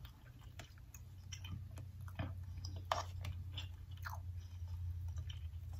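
A person chewing a mouthful of food close to the microphone, mouth-closed mukbang eating, with scattered soft wet smacks and light clicks. A steady low hum runs underneath.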